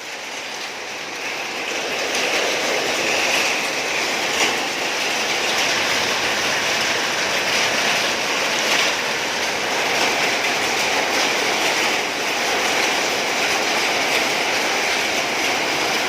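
A hailstorm of many small hailstones pelting down in a dense, steady clatter of fine ticks, building over the first couple of seconds and then holding loud.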